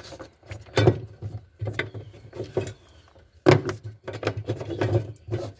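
Loose steel sockets clinking and clattering as they are picked through, in an irregular run of knocks with two louder clacks, about a second in and again about halfway through.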